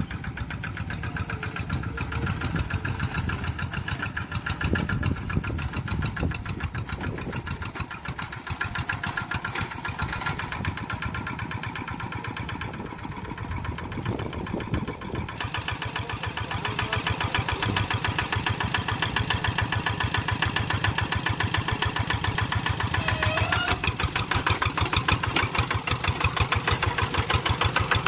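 Tractor engine running steadily with a rapid, even chugging beat, getting somewhat louder around halfway through and again near the end.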